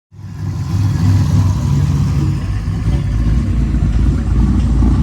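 A car engine running with a deep, steady rumble that starts abruptly.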